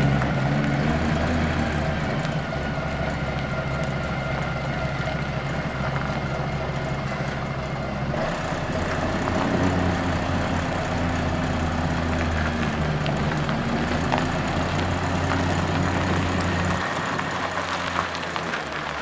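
Scania CR112 bus's diesel engine running as the bus moves. The engine note shifts about eight seconds in, holds steady, then falls away near the end.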